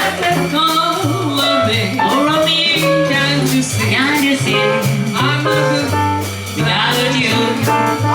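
Live jazz band playing: a stepping bass line and drums with steady cymbal strokes under a melody line.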